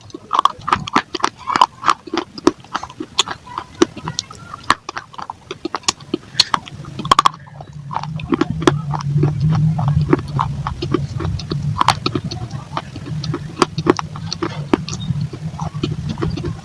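Dry baked clay crunching and crumbling in many quick, sharp crunches, a few a second. A steady low hum runs under them from about six seconds in.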